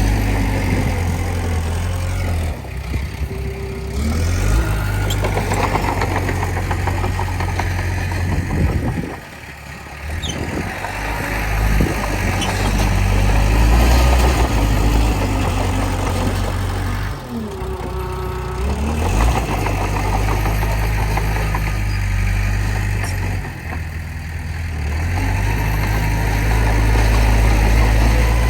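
Komatsu D20P bulldozer's diesel engine running under changing load, easing off several times, most deeply about nine seconds in, then picking up again. A short gliding squeal about two-thirds of the way through.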